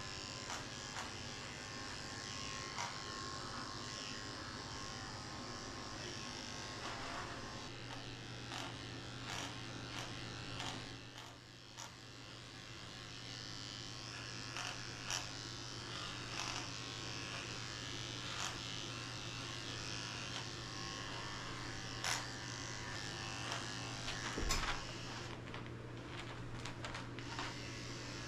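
Electric dog-grooming clippers running with a steady hum, with scattered light clicks.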